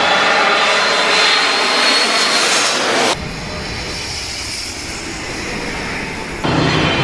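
Jet airliner engines with a high whine that rises slightly. About three seconds in the sound switches abruptly to a quieter, deeper engine rumble, then switches back abruptly to the louder whining engine noise near the end.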